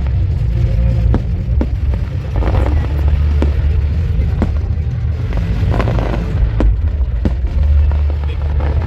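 Fireworks display: a series of sharp bangs and pops spread unevenly over a steady low rumble.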